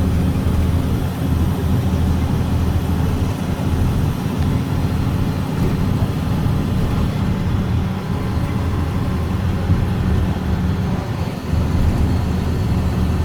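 A 2006 Blue Bird Vision school bus's Caterpillar C7 diesel engine running steadily, heard from inside the bus as a constant low rumble with road and cabin noise.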